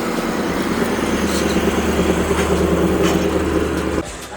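A vehicle engine running steadily at a low, even pitch, getting slightly louder, then cut off abruptly near the end.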